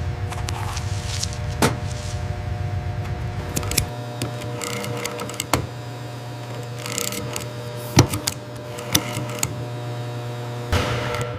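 Factory machinery running with a steady hum and scattered clicks and short whirring motor sounds; a low rumble under it stops about four seconds in.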